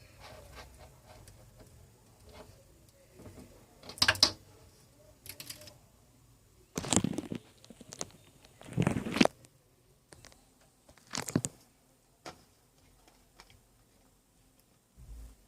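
Handling noises: a series of short rustling and knocking sounds, the loudest about four, seven, nine and eleven seconds in.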